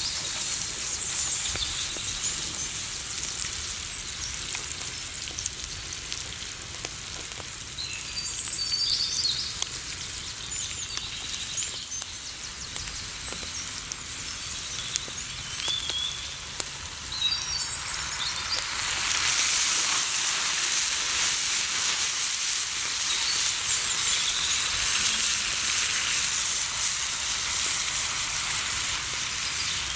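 Food sizzling and crackling as it fries in hot oil in a pan, growing clearly louder about two-thirds of the way through.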